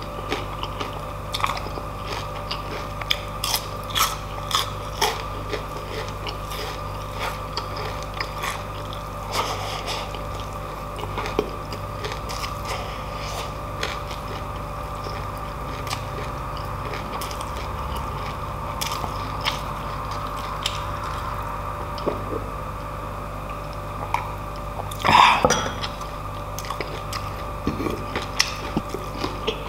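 Close-miked chewing of crispy lechon kawali (deep-fried pork belly): crackling crunches and wet mouth sounds, with a louder crunch burst about 25 seconds in, over a steady background hum.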